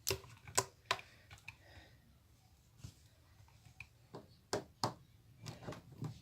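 Scattered light clicks and taps from handling a plastic hair straightener (flat iron): a few in the first second, one near the middle, then a cluster near the end.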